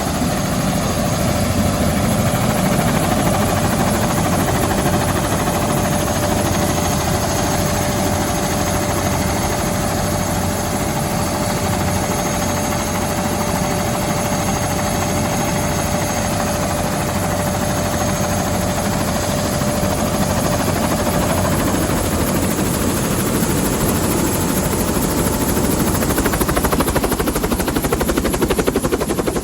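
AS350 Écureuil helicopter running steadily up close, a dense rotor and turbine noise with a steady whine; the whine drops out about three-quarters of the way through while the rotor noise carries on.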